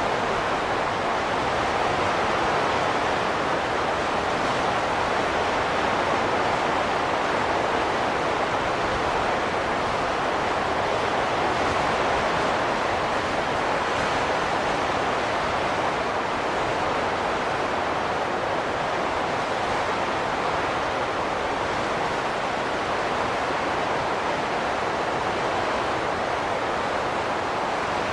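Steady rushing wind, swelling and easing slowly without gusts or breaks.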